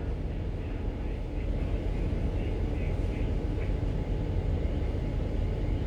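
Ship's engine and machinery running with a steady low rumble as the vessel manoeuvres at dead-slow speed while berthing.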